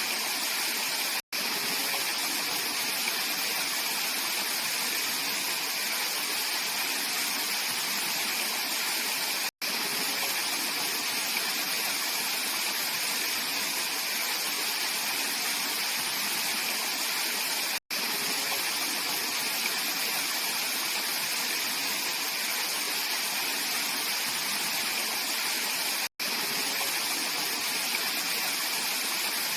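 Mountain valley stream flowing over rocks: a steady, even rush of water. It breaks off for a split second about every eight seconds, four times in all.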